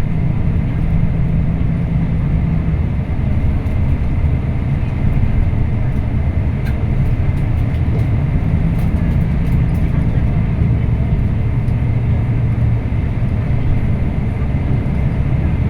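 Scania K340IB coach's diesel engine running steadily while under way, a low drone that strengthens for a few seconds in the middle.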